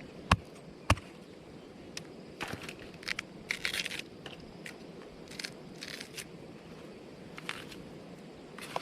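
Two sharp knocks about half a second apart, then scattered crackling and crunching.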